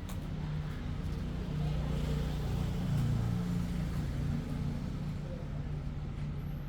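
An engine running steadily with a low hum that rises slightly in level around the middle and then settles.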